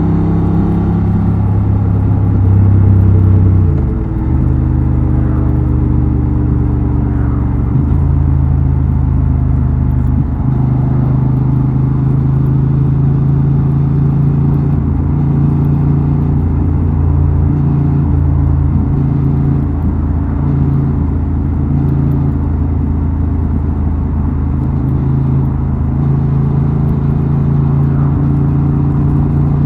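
Honda Transalp XL750's 755 cc parallel-twin engine running on the road, heard from the exhaust: louder under throttle about three seconds in, dipping briefly around four seconds, then holding a steady drone.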